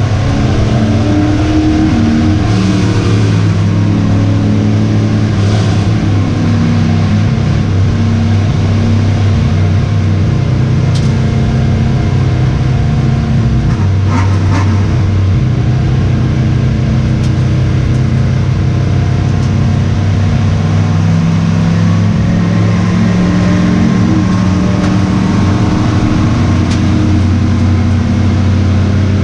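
V8 racing engine of a Pro Truck running hard and loud on track, its pitch rising and falling as the throttle comes off and back on, with a few brief clicks.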